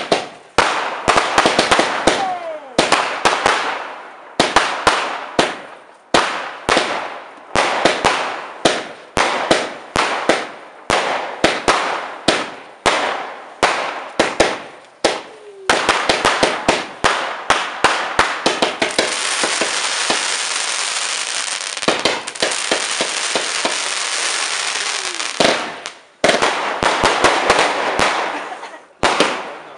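Fireworks going off in a rapid series of sharp bangs, each trailing off in crackle, with a few short falling whistles. About two-thirds of the way through the bangs merge into a dense continuous crackle for several seconds, then separate bangs return.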